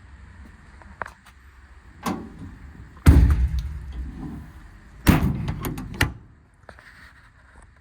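Metal compartment doors on a truck service body being swung shut and latched: a string of bangs with rattling tails, the loudest about three seconds in and another about five seconds in.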